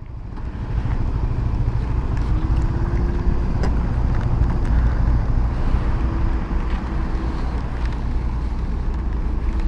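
Wind rushing over the microphone on a moving 150cc motorcycle, with the engine and road noise underneath and a faint steady hum that comes and goes.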